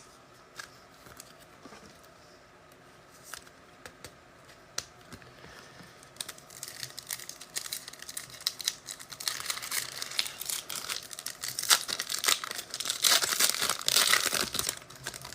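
Foil wrapper of a trading-card pack being torn open and crinkled, starting about six seconds in after a few light clicks and getting louder toward the end before stopping.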